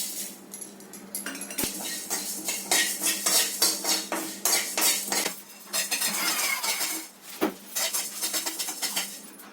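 Metal spoon stirring in a cooking pan: rapid, irregular clinks and scrapes of metal on metal.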